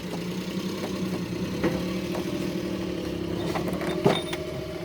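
An engine running steadily at idle, with a few scattered clicks and one sharp knock about four seconds in.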